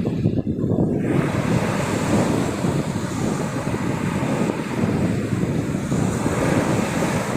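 Sea waves washing onto the beach, with wind buffeting the microphone; a steady, loud low noise without any clear tones.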